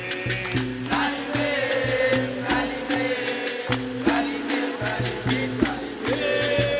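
Capoeira roda music: voices singing over the berimbau's two alternating notes, with a steady beat of rattling percussion strikes.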